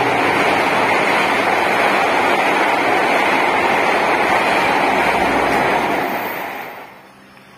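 KA Lodaya intercity passenger train passing at speed: a steady, loud rush of wheels on rail and air, which dies away about seven seconds in as the train clears.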